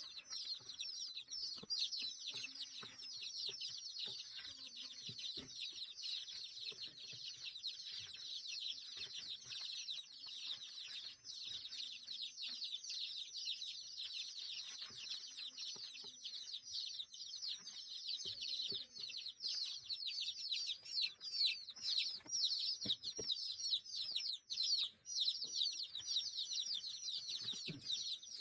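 A crowd of small birds cheeping all at once, dozens of short, high, downward-sliding calls overlapping without a break, with a few faint low calls underneath.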